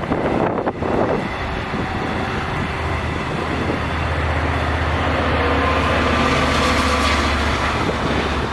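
Long Island Rail Road diesel passenger train passing, its locomotive's steady engine hum building and loudest toward the end. Wind buffets the microphone near the start.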